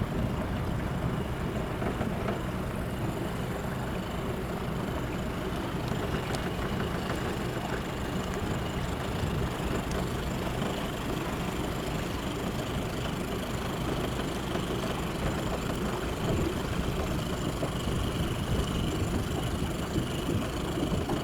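Cargo ship's diesel engine running with a steady low drone.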